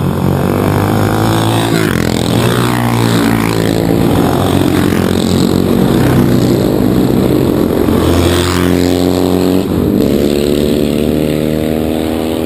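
Racing motorcycle engines revving, their pitch rising and falling several times.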